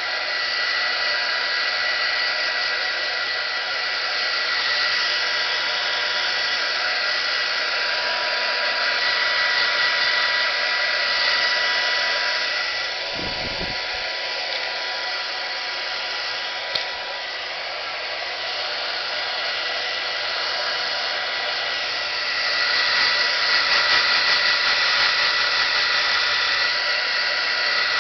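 Hair dryer blowing with a steady whine over its airflow. It dips somewhat quieter for a stretch in the middle, with one sharp click, then grows louder again.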